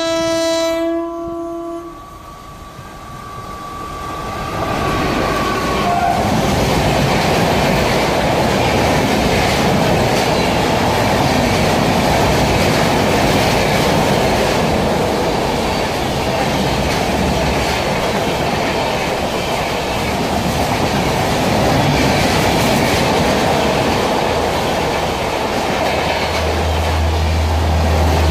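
Indian Railways express train passing through at speed. The locomotive's multi-note horn sounds for about two seconds, then a single horn note holds and drops slightly in pitch about five seconds in. After that comes the loud, steady rush of the LHB coaches' wheels running on the rails.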